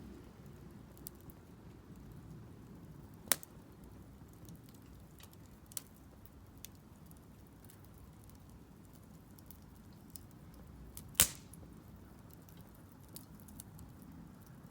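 Split firewood burning in a Solo Stove Campfire fire pit, crackling sparsely over a faint low rumble. Two sharp pops stand out, one about three seconds in and a louder one about eleven seconds in, with smaller ticks between.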